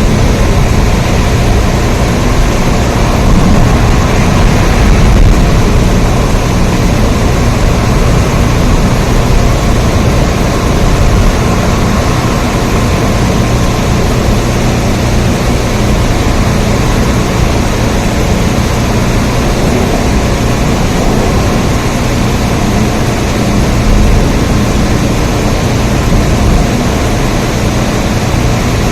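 Steady rain: a dense, even rushing noise with a deep low rumble beneath it, unchanging throughout.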